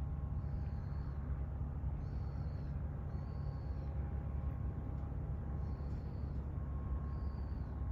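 A steady low harbour rumble with a faint hum, and five short high-pitched bird calls spread over it.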